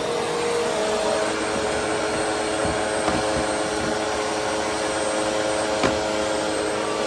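Vacuum cleaner running steadily while vacuuming, with a short click about six seconds in.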